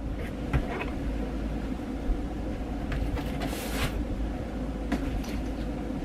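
Steady low hum of room noise with a few faint knocks and a brief rustle about three and a half seconds in.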